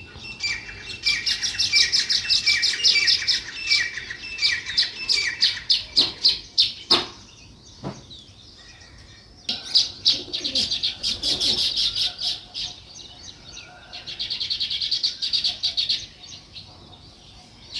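Sparrows chirping in fast, chattering runs of calls, in three spells with short lulls between them.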